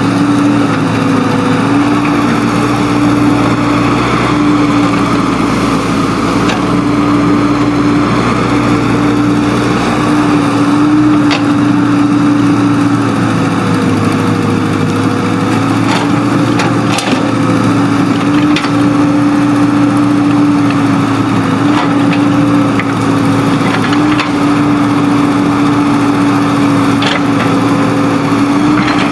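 Engine of earthmoving machinery running steadily under work, its pitch holding fairly even, with a few short sharp knocks scattered through.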